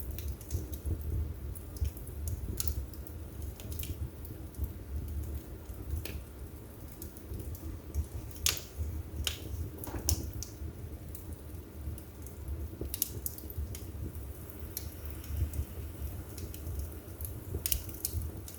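Wood fire burning in a fireplace: irregular crackles and sharp pops over a low, steady rumble of flame, with a cluster of louder pops about eight to ten seconds in.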